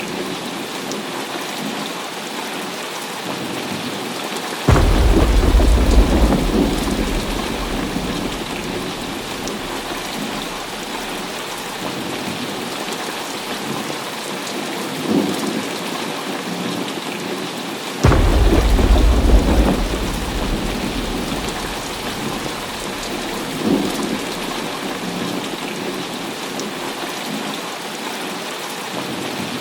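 Heavy rain falling steadily, broken twice by sudden cracks of thunder, about five seconds in and again about eighteen seconds in, each trailing off in a deep rumble over a few seconds. Two fainter rolls of thunder swell up in between.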